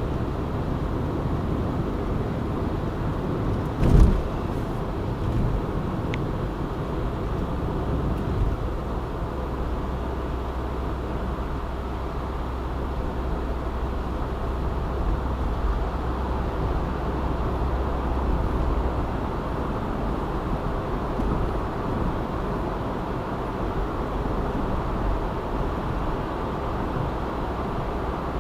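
Car driving on a city expressway: steady engine and tyre rumble, with one sharp thump about four seconds in.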